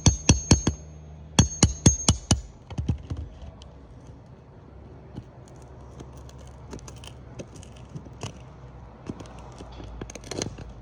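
Hammer driving nails during a roof shingle repair: a fast run of sharp strikes, about four a second, a brief pause, a few more blows, then only light clicks and handling noise.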